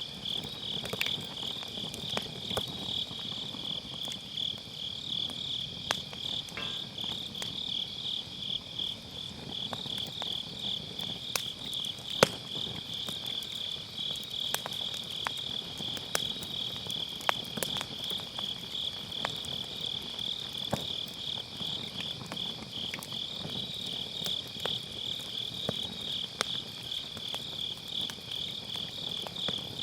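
Firewood burning in a fire pit, crackling with scattered sharp pops, the loudest about twelve seconds in. Autumn grass insects chirp steadily throughout in a fast, even trill.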